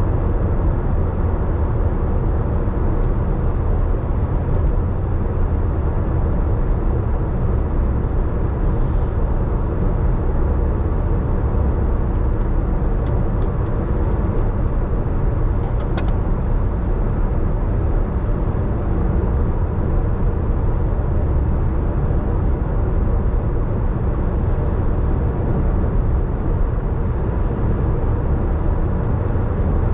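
Steady road and tyre noise of a car driving on a wet road in the rain, a deep even rumble with hiss. Brief hissing swells come about nine seconds in and again near the 25-second mark, with a few faint clicks in between.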